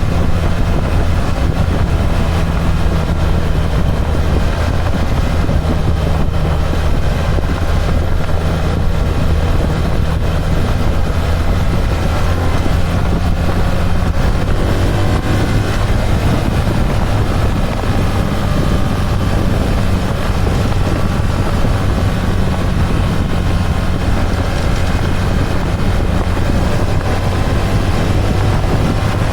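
BMW R1300 GS boxer-twin engine running steadily under way, with wind rush. Its note rises a little about halfway through.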